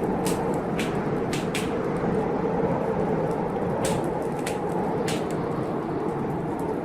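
Wood fire crackling in a fireplace, with irregular sharp pops, about half a dozen here, over the steady rush of a storm.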